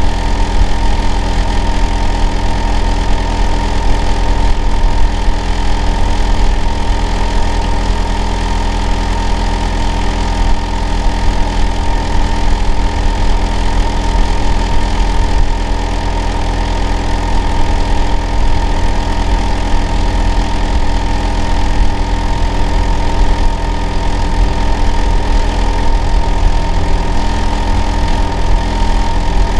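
Hitachi air-conditioner outdoor unit running steadily and loudly: a deep low rumble under a constant hum with a clear steady whine near 1 kHz. This is the noise the neighbour finds unbearable, reported as abnormal.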